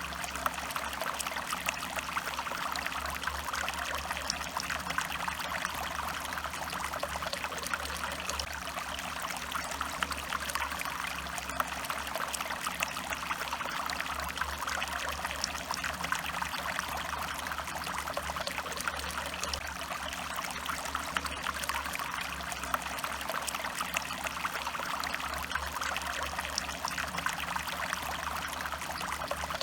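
Small stream flowing and trickling steadily over stones.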